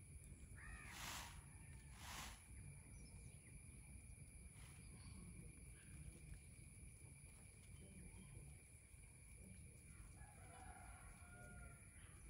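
Two short, harsh bird calls about a second apart near the start, then a fainter pitched bird call near the end, over a quiet outdoor background.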